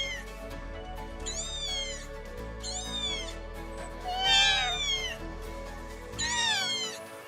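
Cat meowing, about four drawn-out calls a second or so apart, each falling in pitch, over background music.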